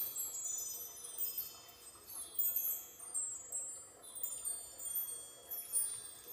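A set of small metal chimes ringing in repeated shimmering runs of high, overlapping notes, each fading away as new ones are struck.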